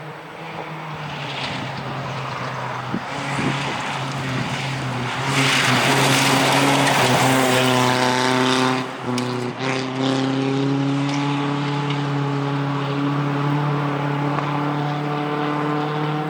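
A rally vehicle's engine droning at fairly steady revs and growing louder. A loud rushing noise swells in the middle and then falls away, and a loud, even engine drone carries on afterwards.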